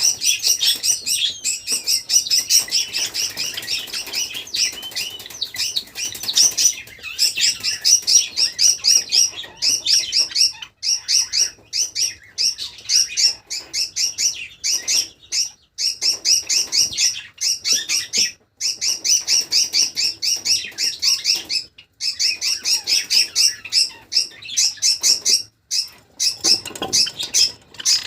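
Pet Java sparrows chirping in a rapid, unbroken run of short high chirps, several a second, with a few brief pauses.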